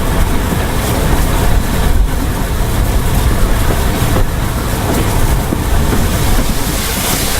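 Train running: a steady, loud rumble with a heavy low end.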